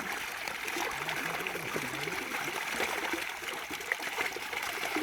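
Water running and trickling steadily, with light splashing.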